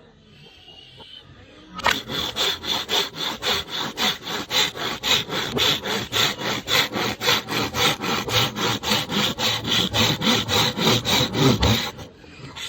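Bamboo being sawn by hand: a quick, even rhythm of strokes, about four a second, that starts about two seconds in and stops shortly before the end.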